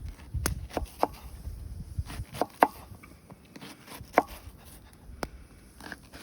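A large onion being cut with a knife on a cutting board: sharp, irregular chopping knocks, several in quick succession early on and then more spaced out.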